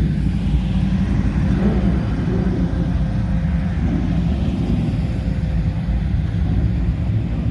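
Classic car engine idling with a steady low rumble.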